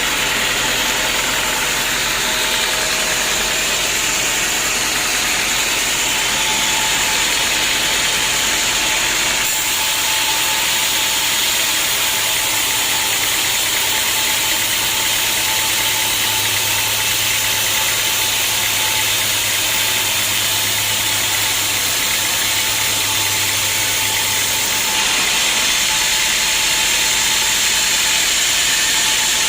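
Homemade band sawmill running steadily with a loud, even mechanical noise. Its sound changes abruptly about a third of the way in and again near the end.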